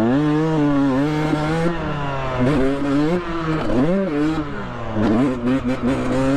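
Dirt bike engine revving hard under riding, its pitch climbing and dropping several times as the throttle is worked and gears change.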